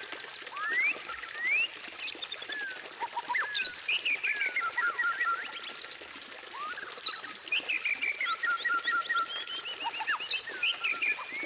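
White-rumped shama (murai batu) singing a long, varied song: clear rising whistles and quick runs of repeated notes, with some very high short notes mixed in.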